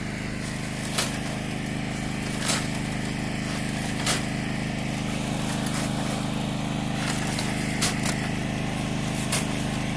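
An engine running at a steady speed, with a few sharp clicks or knocks every second or two over it.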